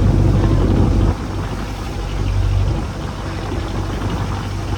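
Fishing boat's engine running steadily, then dropping abruptly to a quieter, lower-toned run about a second in.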